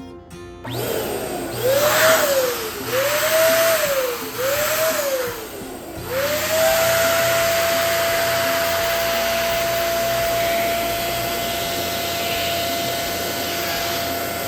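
Electric balloon pump inflating a balloon. Its motor whine rises and falls three times in short bursts, then runs steadily with an even pitch.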